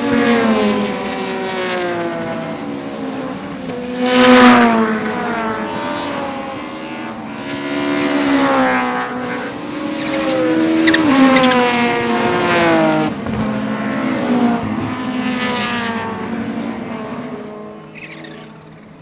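Turbocharged 2.2-litre five-cylinder engine of an Audi 200 Turbo Quattro race car at full throttle, revs rising and falling through several gear changes. Short hissing bursts of turbo chirping come when the throttle lifts. The sound fades near the end.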